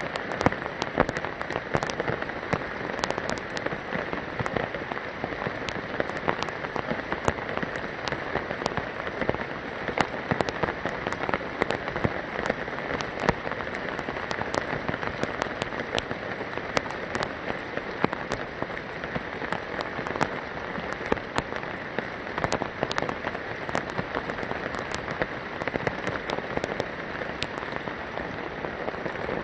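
Steady rain, with many individual drops landing in sharp, close ticks on a hard surface.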